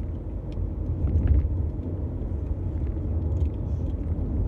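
Steady low rumble of a moving car heard from inside the cabin, with a few faint light ticks.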